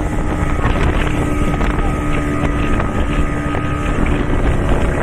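Motorboat engine running steadily, with a constant hum under wind buffeting the microphone.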